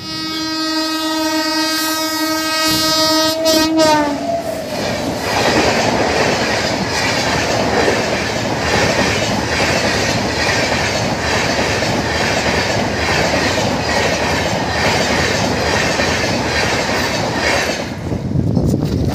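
A speeding passenger train's locomotive horn sounds one long held chord whose pitch drops about four seconds in as the locomotive passes. The coaches then rush past with a steady rhythmic clatter of wheels over the rail joints, which cuts off near the end.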